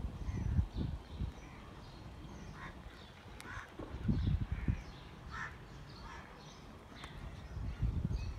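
Birds calling in short, scattered calls. Three bouts of dull low thumps or rumbles, at the start, about four seconds in and near the end, are the loudest sound.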